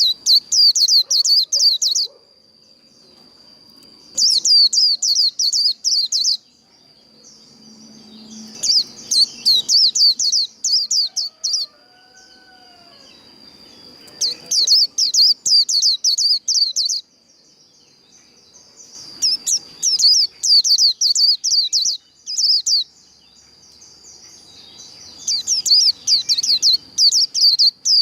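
White-eye (vành khuyên) singing the fast 'líu' fighting warble, the rapid twittering song used to rouse other white-eyes to sing. It comes in bouts of quick high chirps, each lasting two to three seconds, about every five seconds, over a thin steady high tone.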